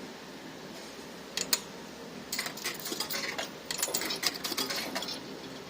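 Fruit machine clicking and rattling rapidly for about three seconds, starting a couple of seconds in after a few single clicks, over a steady arcade background.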